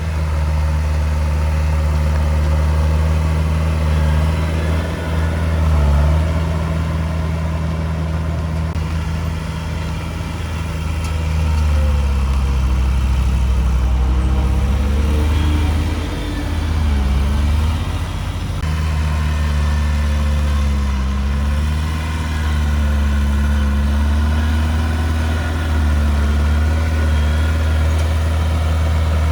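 Diesel engine of a Komatsu D31P crawler bulldozer running steadily, its engine speed dipping briefly and recovering a few times, most around the middle.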